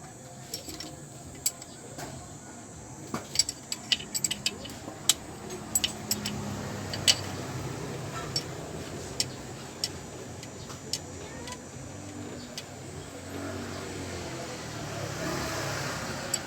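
Irregular metallic clinks and taps of hand tools and loose engine parts being handled during engine disassembly, over a steady low hum.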